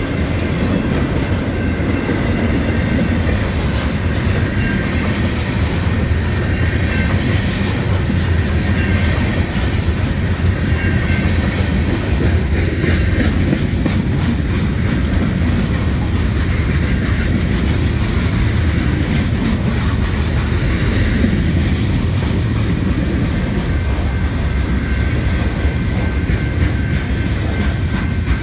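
Norfolk Southern mixed freight train's cars rolling past close by: a loud, steady low rumble of steel wheels on rail, with clicking from the wheels over the track and a faint, steady, high-pitched wheel squeal.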